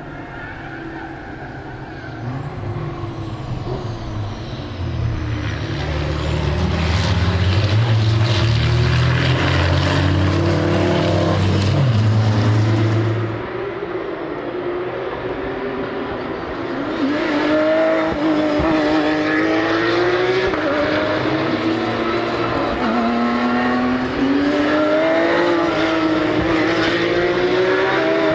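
Racing trucks' diesel engines on track at high revs. A heavy low engine sound builds and cuts off abruptly about halfway through, then the engine note rises and falls repeatedly.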